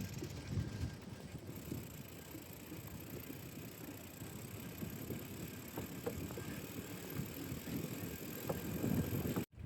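Bicycle being ridden: an uneven low rumble of tyres on the road and wind buffeting the microphone. The sound cuts out briefly near the end.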